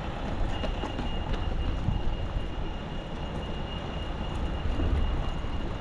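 A steady low rumble of rain-soaked street noise, with a thin, steady high-pitched whine that starts about half a second in and holds.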